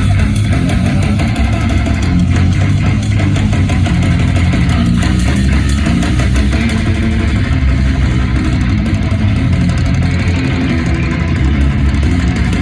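Live heavy metal with distorted guitars, heavy bass and very fast, dense drumming, played loud through a festival PA.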